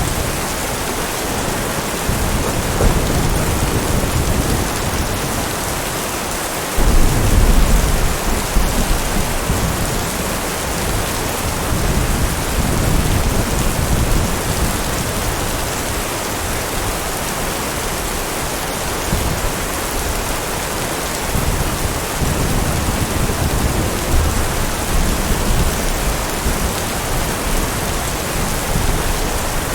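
Steady heavy rain with rolling thunder: a low rumble builds from about two seconds in, then a louder thunderclap breaks suddenly about seven seconds in and rolls on, with further rumbles later.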